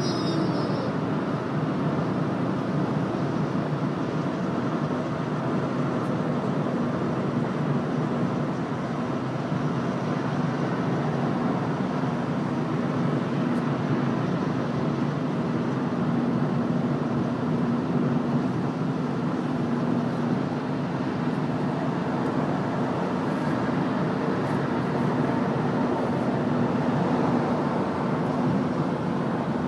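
Steady road and engine noise inside a moving car's cabin, with a low even hum.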